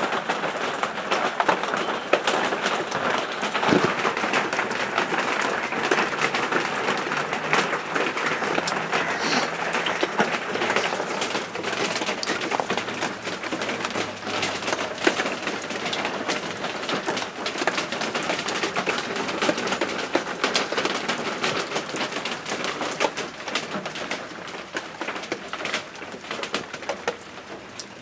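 Steady rain falling and pattering on hard surfaces, with dense, fine drip clicks throughout.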